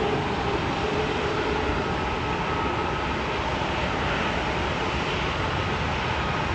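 Jet airliner engines running: a steady, even roar with faint whining tones that fade out in the first few seconds.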